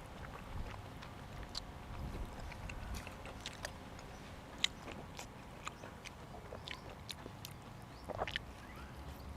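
A person chewing and biting food close to the microphone, with soft, irregular wet mouth clicks and smacks throughout; one sharper click about halfway through and a brief louder patch near the end.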